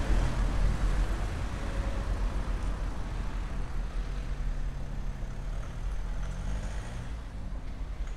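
A motor vehicle's engine and tyres passing on a street, loudest at first and then fading away, with a fainter engine hum again midway.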